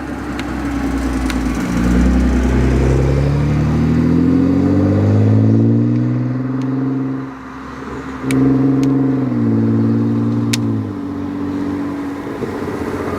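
Nissan GT-R accelerating past on the track. The engine note climbs steadily for several seconds, dips briefly about seven seconds in, then pulls again, dropping in pitch at the gear changes as it fades.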